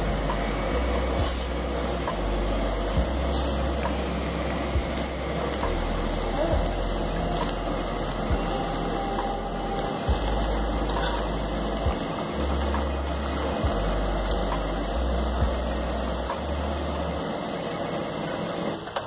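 Paratha frying on a hot, oiled tawa: a steady sizzling hiss, with a few light clicks of tongs and a spatula against the pan.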